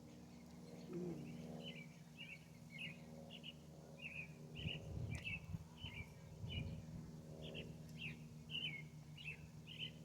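A bird chirping in a steady series of short, high chirps, two to three a second, over a low steady hum and a couple of low rumbles.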